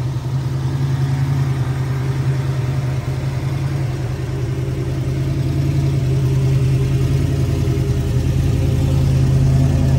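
A 1970 Chevrolet Nova's 383 stroker V8 idling steadily through headers and a new exhaust system. It grows a little louder near the end.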